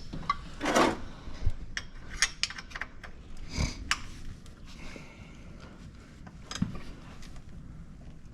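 Metal hand tools clinking and knocking, a dozen or so scattered light clicks with some rustling in between.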